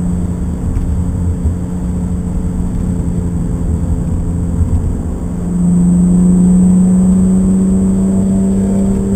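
A BMW's engine running under way, heard from inside the cabin. About five and a half seconds in it gets louder and its note climbs slowly.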